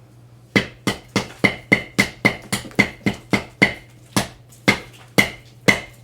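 A hammer striking a hard object over and over to break it open: about sixteen sharp blows, each with a short ring, quick at first and then slowing slightly.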